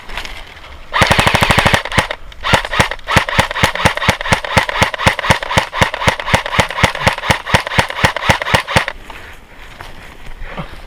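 Airsoft gun firing close by: a short full-auto burst, then a long string of rapid, evenly spaced shots at about five or six a second, which stops near the end.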